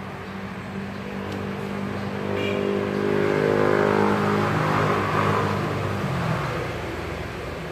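A motor vehicle's engine passing by, swelling to its loudest mid-way and fading away after about six seconds.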